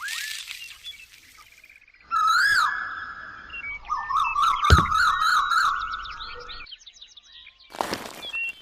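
Bird-like chirps and whistles: a warbling whistle that starts and stops abruptly, with many short chirps, and a burst of chirps near the end.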